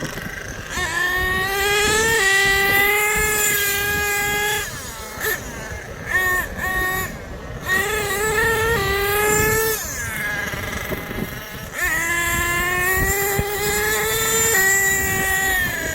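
Small nitro engine of a radio-controlled monster truck running at high revs, held in long steady pulls and blipped up and down in between, with the throttle backing off several times.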